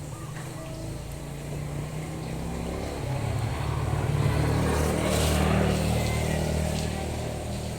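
A motor vehicle's engine passing by: it grows louder to a peak about five seconds in, then fades away.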